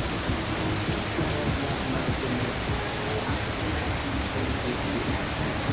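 Steady rain falling, an even hiss of noise.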